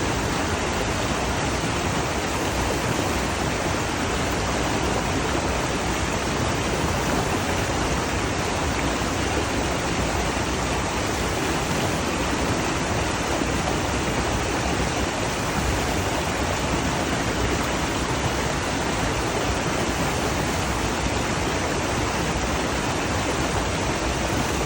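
Running water rushing steadily, with no breaks or changes.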